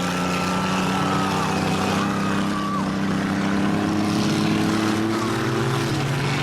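Demolition derby car engines running and revving together, several engine notes overlapping and shifting in pitch.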